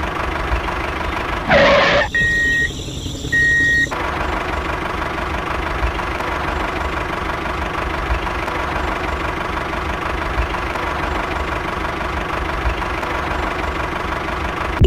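Motor of a DIY mini tractor running steadily with an even, engine-like hum. About one and a half seconds in there is a short whoosh, followed by two brief high beeps.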